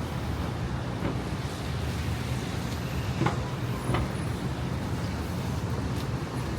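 City street traffic in the rain: a steady low rumble of passing vehicles over an even hiss, with two short sharp knocks a little past the middle.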